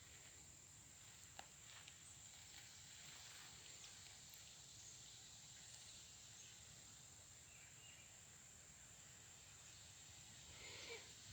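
Near silence: faint outdoor background with a steady high-pitched hiss, a faint click about a second and a half in, and some light rustling near the end.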